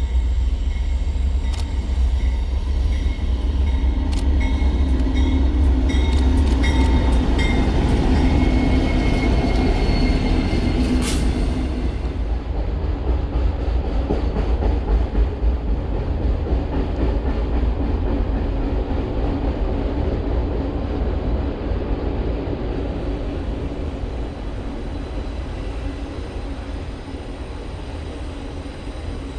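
A freight train rolling past at close range, its locomotive first and then a long string of autorack cars: a heavy, steady rumble of wheels on rail that slowly fades over the last several seconds. A sharp high click sounds about eleven seconds in.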